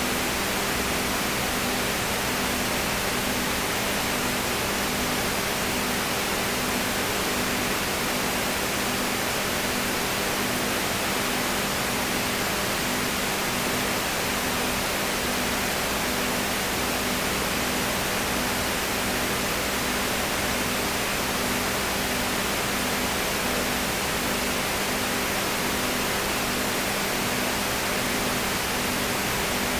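Steady, even hiss with a low electrical-sounding hum under it, one hum tone pulsing about once a second.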